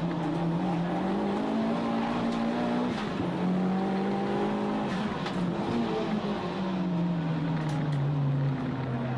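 Toyota Starlet Glanza EP91's 1.3-litre four-cylinder engine heard from inside the cabin at racing speed: the revs climb, drop at a gearshift about three seconds in, hold, then fall away under braking near the end.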